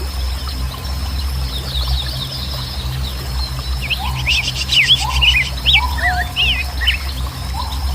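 Several birds chirping and whistling: quick high chirps and a rapid trill, busiest from about four to seven seconds in, with a few lower whistled calls that rise and then hold, over a steady low rumble.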